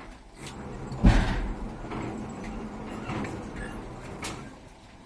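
A crane squeaking and creaking as it lifts a load, with a loud clunk about a second in and a sharp click near the end.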